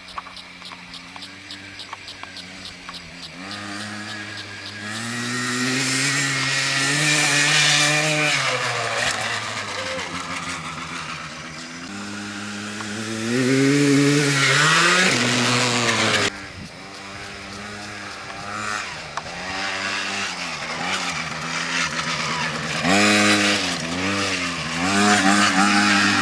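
Motocross dirt bike engine revving up and down in pitch as it is ridden around a track. It swells louder twice as the bike comes close, drops off suddenly after about two-thirds of the stretch, then picks up again with more rising and falling revs near the end.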